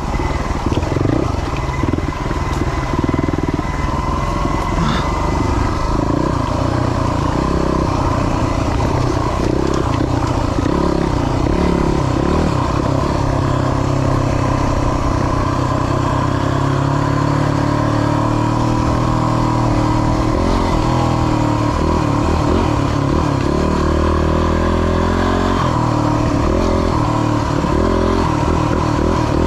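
Yamaha WR250's single-cylinder four-stroke engine running as the bike is ridden, its pitch rising and falling with the throttle, loud and continuous.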